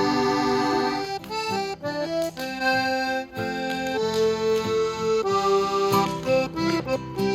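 Instrumental music with an accordion sound: a held chord for about the first second, then a melody of sustained reedy notes over held bass notes.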